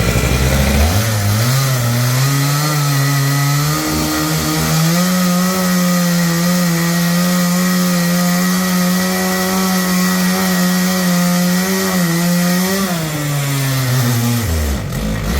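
A two-stroke chainsaw is revved to full throttle and held there, probably as it cuts wood. Its pitch climbs over the first seconds, steps up once more, holds steady, then falls back near the end.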